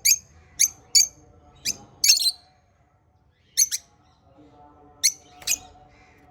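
Small pet parrots giving short, sharp, high chirps, about ten in all, in quick clusters with a pause of about a second in the middle.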